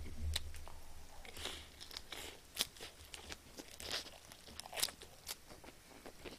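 Close-miked crunching and chewing of a lettuce wrap with grilled chicken: irregular crisp crunches and wet mouth clicks, with a few sharper crunches standing out.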